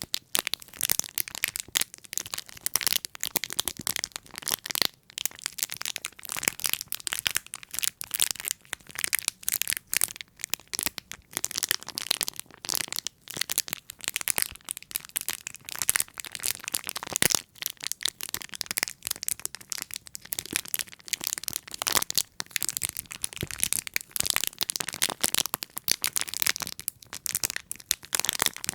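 Close-miked ASMR crackling and crinkling: a dense, unbroken stream of small sharp clicks and crackles.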